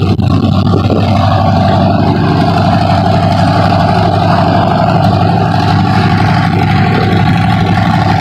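Hummel H5 ultralight aircraft engine running steadily on a ground run, with a steady whine joining about a second in.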